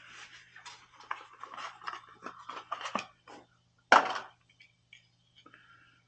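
Hands-on work with tools and metal parts: a quick run of clicks and scrapes, then one sharp clank about four seconds in and a few scattered clicks, over a faint steady low hum.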